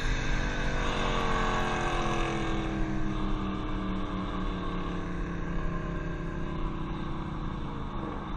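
Car engine running at highway speed, its note falling slowly and steadily as it eases off, over road and wind noise.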